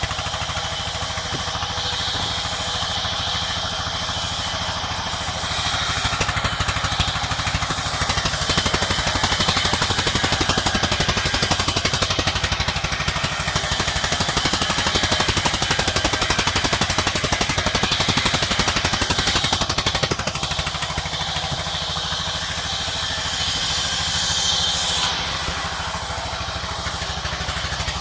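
Sawmill machinery running steadily: an even, rapid engine-like drone with a hiss on top, louder through the middle stretch.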